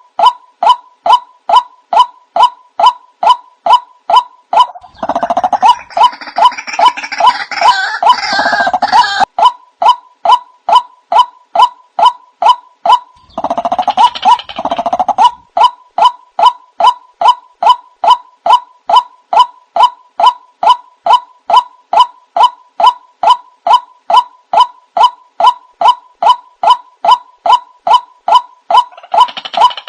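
White-breasted waterhen (ruak-ruak) calls, a lure recording: a monotonous call repeated about twice a second, with two stretches of fuller, harsher chorus calling around five and thirteen seconds in.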